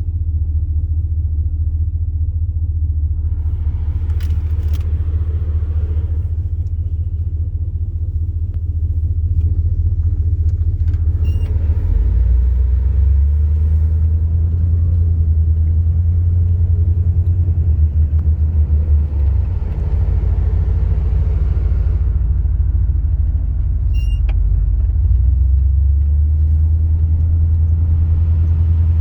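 Low, steady rumble of a car being driven, engine and road noise together. It grows a little louder about twelve seconds in, with a few faint ticks over it.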